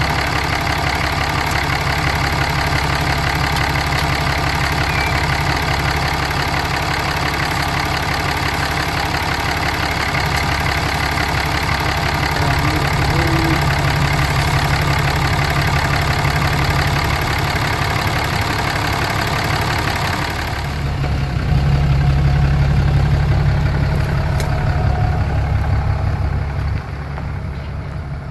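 Ram 3500's Cummins turbo-diesel idling steadily, left running so the freshly refilled 68RFE transmission can have its fluid level checked. About two-thirds of the way through, the higher hiss fades and the low rumble grows louder.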